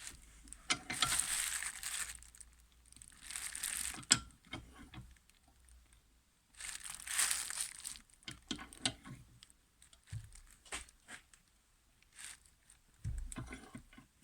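Three bursts of rustling, crinkling noise, as of paper or plastic wrapping being handled, with a sharp click about four seconds in and scattered light clicks and knocks.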